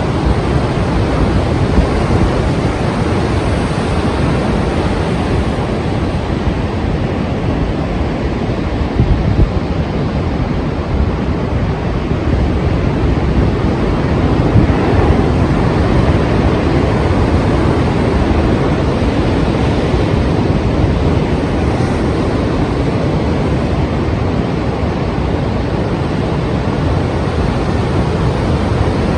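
Strong sea waves breaking and surging in a continuous rumbling wash, swelling a little about halfway through, with wind buffeting the microphone.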